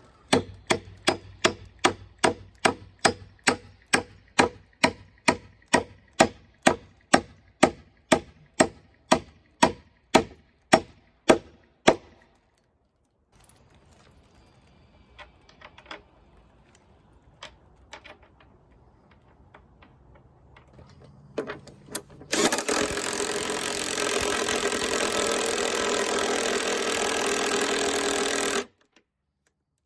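Steady hammer blows, about two a second for some twelve seconds, driving a carriage bolt through a wooden porch post. Near the end a power tool runs steadily for about six seconds and cuts off suddenly.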